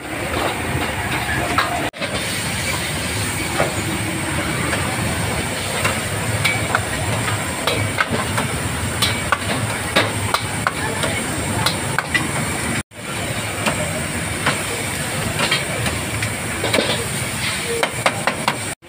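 Steady sizzling hiss of food frying at a street stall, with scattered clinks and knocks of metal utensils. The sound cuts out briefly twice, about 2 s and 13 s in.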